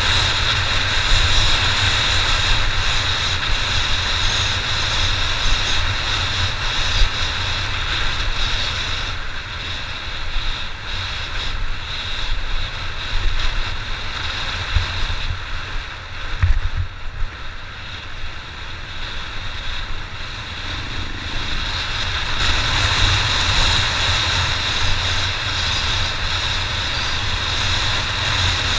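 Honda XR600's single-cylinder four-stroke engine running as the bike rides along, heard through heavy wind rumble on the microphone. The sound eases off for several seconds in the middle, then picks up again.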